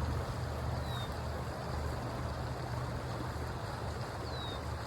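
Creek water running steadily, with a low rumble of wind on the microphone underneath. Two faint, short, high falling chirps, one about a second in and one near the end.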